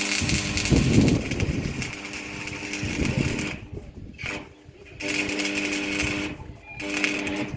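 A small motor-driven tool running in spells, switched off and on again twice, with rough rumbling bursts under it about a second in and again near three seconds.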